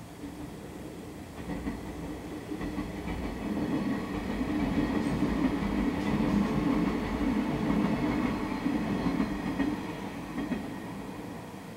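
Electric multiple-unit passenger train passing on the track: the rumble builds over the first few seconds, is loudest in the middle, and fades away near the end.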